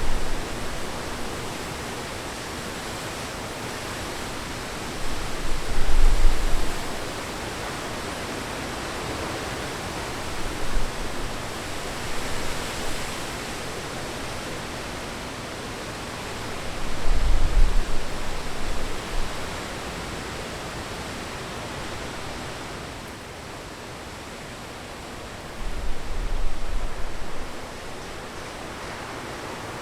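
Steady hiss of rain falling, with wind gusting on the microphone in low rumbles about five seconds in, near the middle and near the end.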